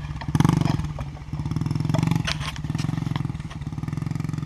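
Small pit bike engine running, with the throttle opened and eased off several times as the rider takes a corner.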